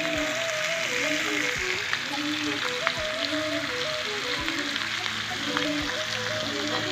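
Chicken pieces sizzling in a steel kadai, stirred with a flat metal spatula. Background music with a simple stepping melody and a soft low beat about every second and a half plays over it.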